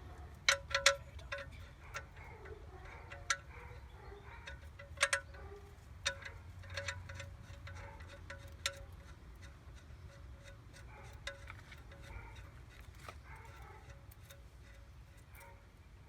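Metal chimes ringing: irregular light strikes, several close together about half a second in and again about five seconds in, each leaving a ringing tone that lingers.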